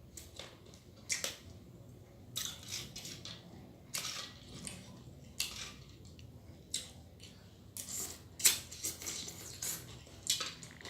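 Close chewing and crunching, with irregular sharp cracks that are loudest about eight and a half seconds in: blue swimming crab being bitten and cracked in the mouth during eating.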